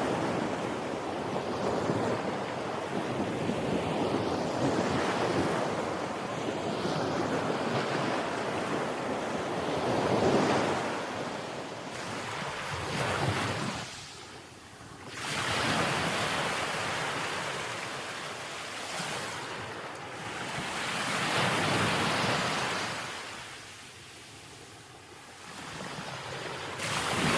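Sea waves breaking on the shore, the wash swelling and falling away in several surges, with wind in the background.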